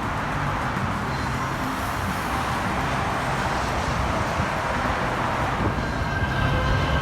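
LA Metro light rail train running, a steady rumble and rolling noise, with a faint whine coming in near the end.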